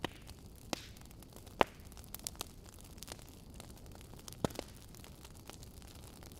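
Wood fire in a fireplace crackling: sharp pops from the burning logs at irregular intervals over a low, steady hiss. The loudest pops come about one and a half seconds in and again about four and a half seconds in.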